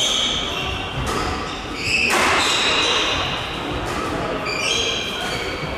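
Badminton doubles rally: court shoes squeaking repeatedly on the hall floor, with a few sharp racket strikes on the shuttlecock, the loudest a little after two seconds in.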